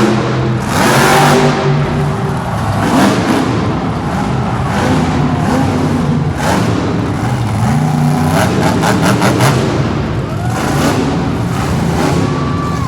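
Monster truck engine revving, its pitch climbing and dropping several times. A brief run of rapid sharp crackles comes about two-thirds of the way through.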